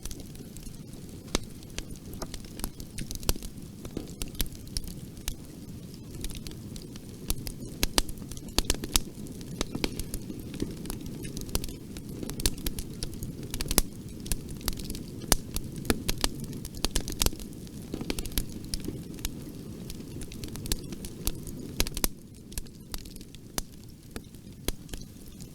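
Bonfire burning: wood crackling and popping in irregular sharp snaps over a steady low rush of flames.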